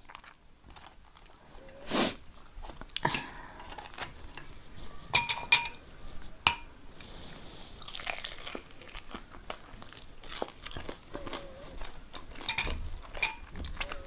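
Close-up chewing and crunching of food, with a few sharp clinks of cutlery against a plate about five seconds in and again near the end.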